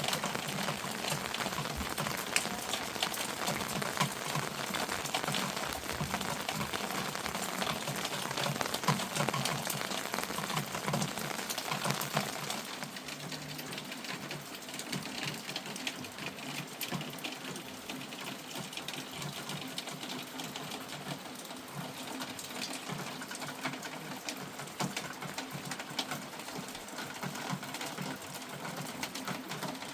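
Heavy rain pattering on a surface, a dense run of rapid drops that eases a little about twelve seconds in.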